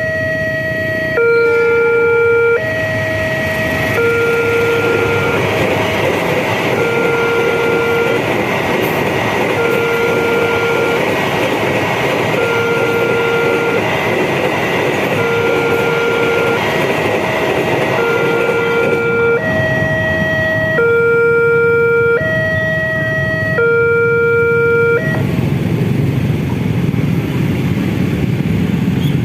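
Railroad level-crossing warning alarm sounding a two-tone chime that alternates high and low about every one and a half seconds, while a freight train of empty cement wagons behind a CC 206 diesel locomotive passes with a steady rumble of wheels on rails that partly drowns the alarm. Near the end the alarm stops and a low rumble remains.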